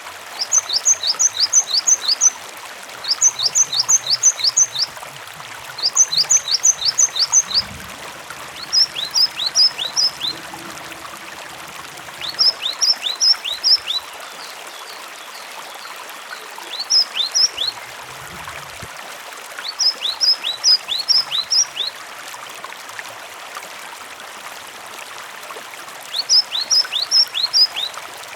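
Cinereous tit (gelatik batu) calling in repeated bursts of four to six quick, sharp notes, each dropping in pitch, every two to three seconds. Running water sounds steadily underneath.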